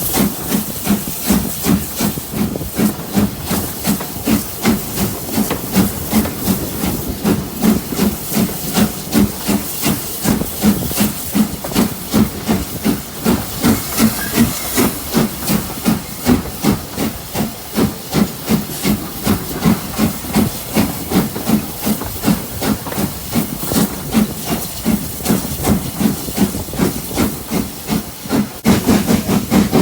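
Steam locomotive working under way: a steady rhythm of exhaust beats, about two to three a second, over a constant steam hiss. The beats grow louder near the end.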